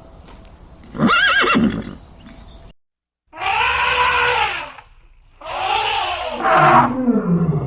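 Horses neighing: a short neigh about a second in, then after a break, two longer neighs, the last one dropping low in pitch as it ends.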